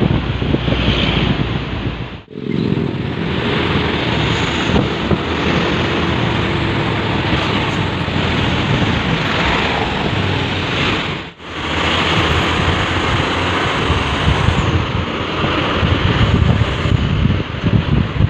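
Loud wind buffeting on the microphone over the rumble of engines and road noise from trucks on the move. The sound drops out suddenly twice.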